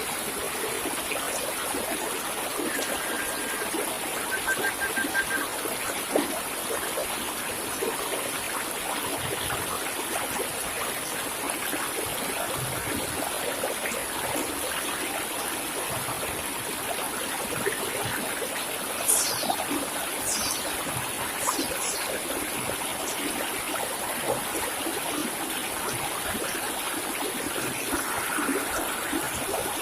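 Steady running water, like a small stream trickling. A few quick, high, falling bird chirps come about two-thirds of the way through.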